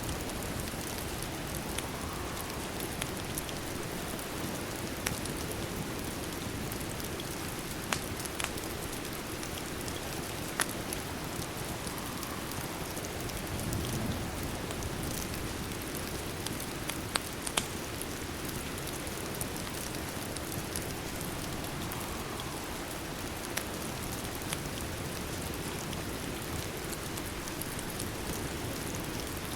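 Steady rain, with a scattering of sharp ticks and pops every few seconds.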